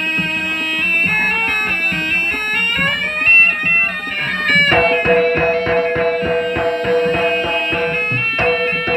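Jaranan music with a nasal reed shawm (slompret) playing a winding melody over a steady beat of drum strokes. About five seconds in, the reed settles into long held notes.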